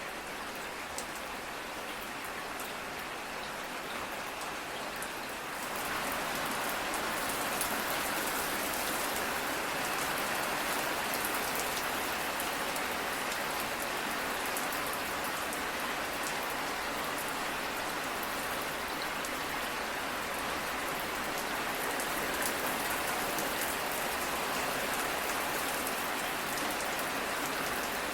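Steady rain falling, with fine drop patter, growing heavier and louder about six seconds in and staying steady after.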